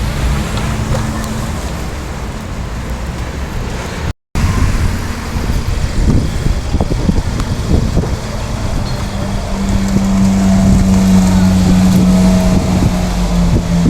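Street traffic with a car engine running. The sound cuts out completely for a moment about four seconds in. Later a steady engine note grows louder, then falls in pitch near the end as a vehicle passes.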